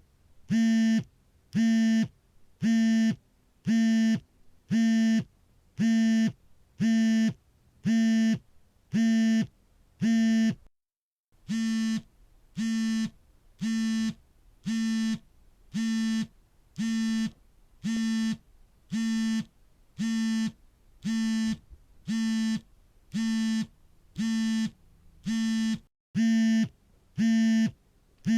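Mobile phone vibrating on an incoming call: a steady, buzzing drone about half a second long, repeating roughly once a second. There is a brief break in the pattern about eleven seconds in.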